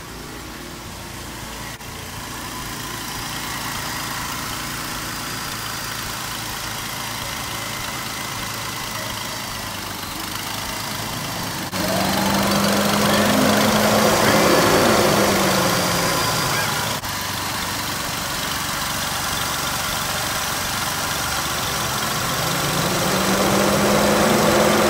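Jeep Wrangler JK's 3.8 L V6 idling with the AC on. About halfway through, a much louder rushing sound comes in, with a low tone that rises and then falls and rises again near the end: the electric radiator cooling fan running, now working after the high-speed fan relay was replaced.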